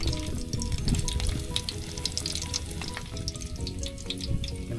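Food frying in hot oil, with a dense, steady crackle and sizzle. Background music plays over it.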